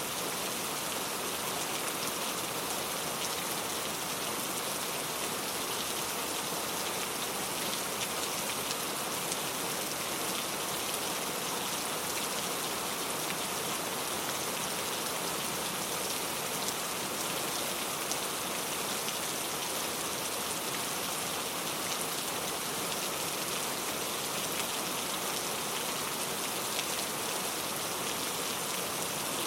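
Steady rain falling: an even hiss of rain on a surface, dotted with many small drop ticks, with no change in intensity.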